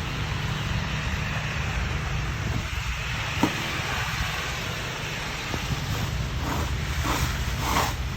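Steady low rumble and hiss, then in the last couple of seconds a snow shovel scraping the ground in short repeated strokes, about one a second or a little faster. One sharp click about three and a half seconds in.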